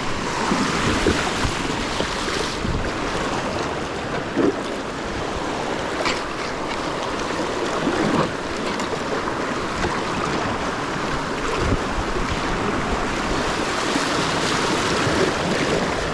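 Rushing river current around a fishing kayak, with occasional paddle-stroke splashes as it is paddled upstream against the flow.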